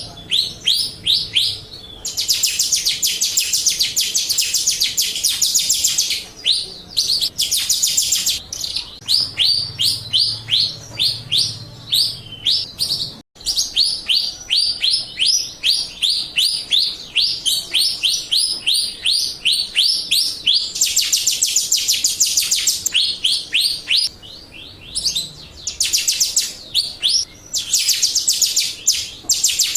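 Jalak Rio starling singing: long runs of quick, sharp rising chirps, several a second, broken every few seconds by harsh, buzzy chattering bursts. This is a recorded song played as a lure to get other birds to answer.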